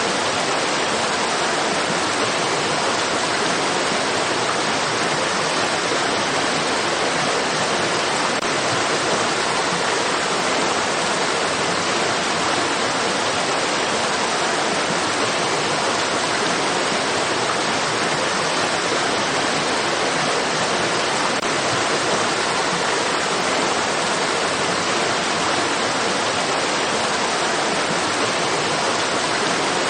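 Running stream water, a steady, even rush of flowing water with no changes or separate splashes.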